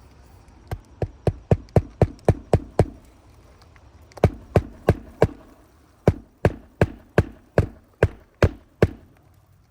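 Hand hammer driving roofing nails through asphalt shingles: three runs of sharp, even blows, about three to four a second.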